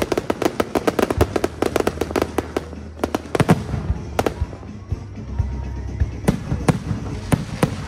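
Aerial fireworks going off: a dense rapid crackle of many small cracks for about the first three seconds, then sparser single bangs, with faint whistles rising between them.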